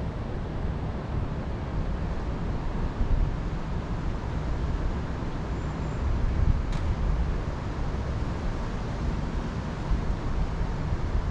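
Steady wind rumble, strongest in the low end and rising and falling in strength, with a single sharp click about two-thirds of the way through.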